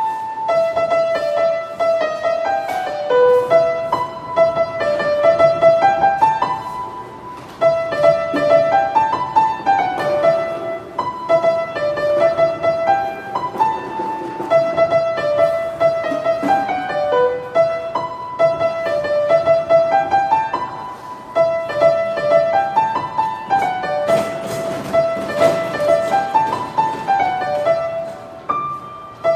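Public street piano played continuously: a lively pop melody with quick repeated notes in the treble over a lighter accompaniment, with short phrases that climb and fall back.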